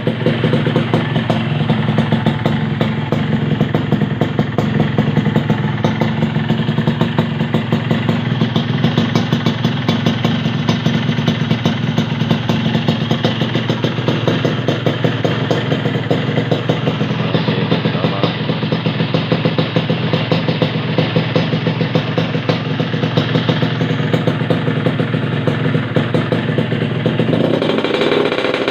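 Yamaha RX-King two-stroke single-cylinder motorcycle engine idling steadily through a competition-style racing exhaust, then revving up near the end.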